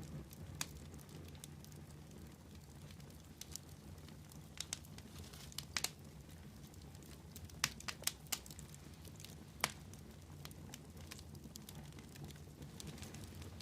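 Wood fire crackling: irregular sharp pops and snaps, a few louder ones in the middle, over a low steady rumble.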